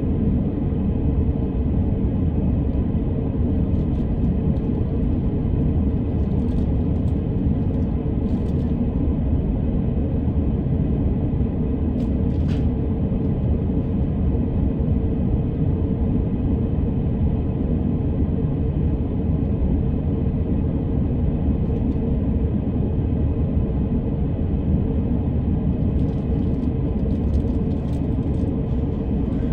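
Steady running rumble of an electric commuter train heard from inside the passenger car as it runs between stations, with a few faint clicks along the way.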